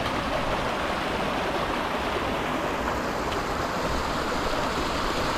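Steady rushing of a moorland stream flowing over rocks, an even hiss with no breaks.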